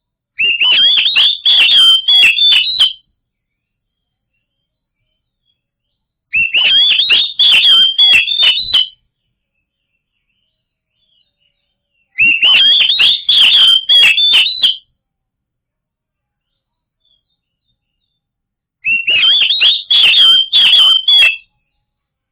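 Oriental magpie-robin (kacer) song: a rapid phrase of whistled notes and sharp clicks about two and a half seconds long, repeated four times with silent gaps of three to four seconds between them.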